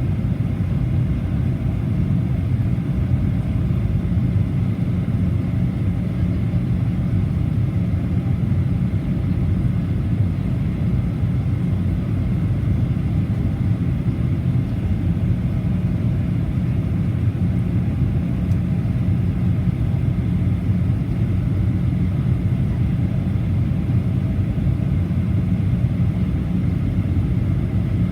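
Steady cabin noise inside a Boeing 737-800 airliner: a constant low rumble of its CFM56 engines and airflow, with a few faint steady tones above it.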